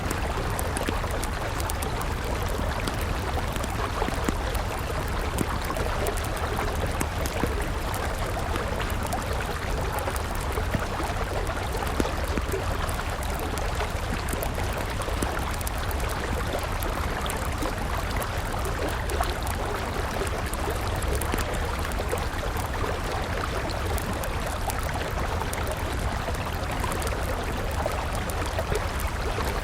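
River water flowing steadily, with a wood campfire crackling as small sharp ticks over it.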